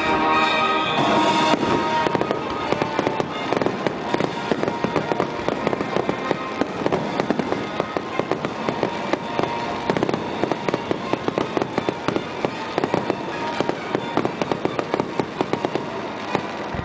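Fireworks grand finale: a dense, rapid barrage of shell bursts and crackling, many reports a second, thickening after about two seconds.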